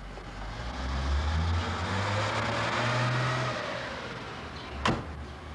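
Car engine running, its sound swelling up over the first few seconds and then easing off. A single sharp click comes near the end.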